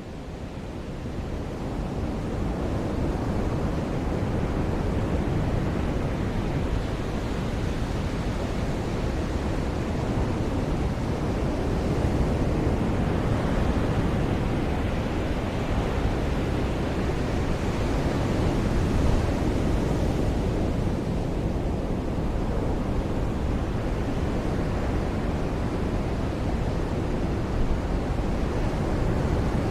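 Ocean surf washing onto a beach: a steady rush of noise with slow, gentle swells, fading in over the first few seconds.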